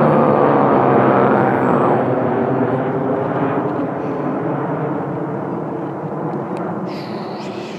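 Airplane flying low overhead on its approach to land: a steady rumble with a low hum in it, loudest at first and slowly fading as it moves away.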